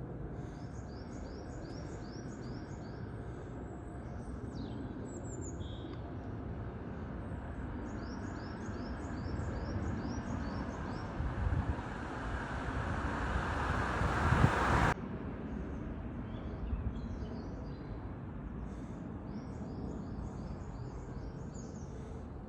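Jet aircraft engine noise growing steadily louder, then cutting off abruptly about two-thirds of the way through, over outdoor background noise with birds chirping in quick repeated runs.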